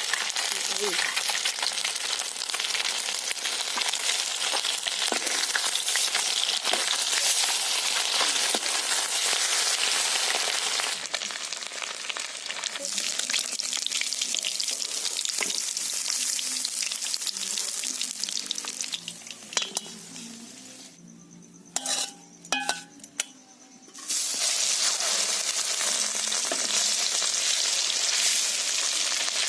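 Spice masala sizzling as it fries in oil in a pan while being stirred. About two-thirds through, the sizzle dies away for a few seconds, with a few sharp clicks, then comes back loud.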